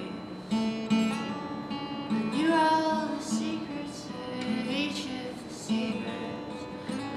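Acoustic guitar strummed in a steady rhythm, with a voice singing over it: a live acoustic song.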